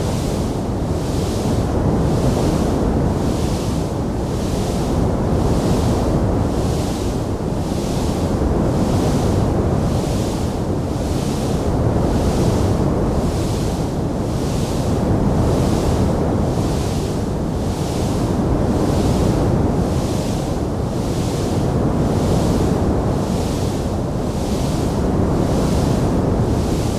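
Wood fire burning in a stone fireplace: a steady low rumble of flames with a higher hiss that swells and fades about once a second. No separate crackling pops stand out.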